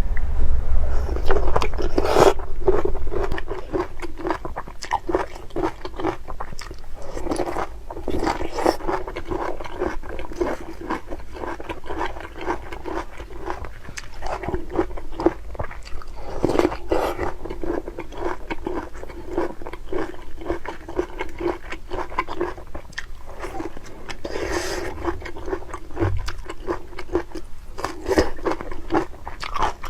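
Close-miked eating: steady crunchy chewing, with a louder bite every several seconds.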